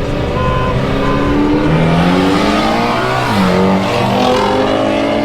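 An Audi and a Mitsubishi Evo launching in a race, their engines revving hard and climbing in pitch, with a gear change about three and a half seconds in before the pitch climbs again.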